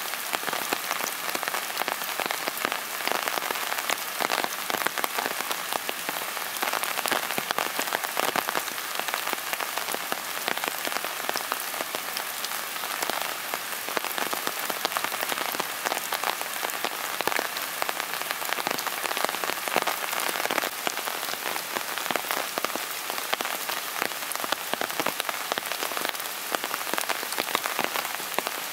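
Steady rain falling and pattering on hard surfaces: an even wash of many small drop impacts that does not let up.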